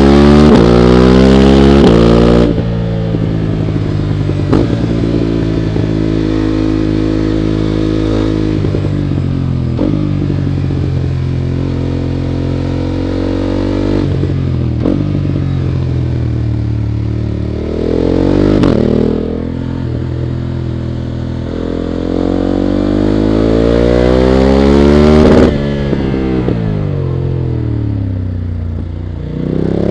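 BMW F 900 GS's parallel-twin engine under hard acceleration on track, with rushing wind. It climbs in pitch on long pulls and drops away sharply when the throttle closes, about two seconds in, again near the middle and again near the end.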